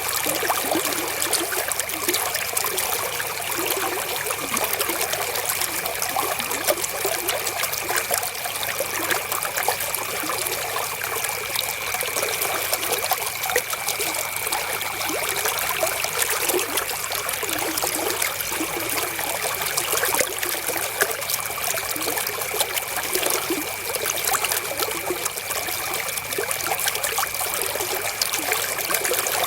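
River water flowing and trickling in a steady, unbroken rush, with a faint steady high tone running beneath it.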